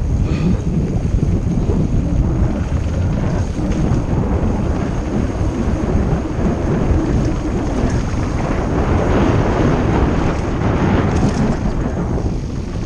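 Wind buffeting the microphone of a camera on a mountain bike being ridden fast downhill: a loud, continuous rumbling noise.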